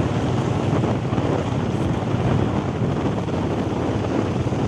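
Wind buffeting the microphone on a moving motorbike, with the bike's engine running steadily underneath.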